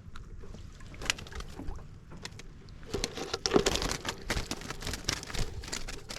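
Water splashing and sloshing with quick knocks and clatter of handling, sparse at first and much busier from about three seconds in.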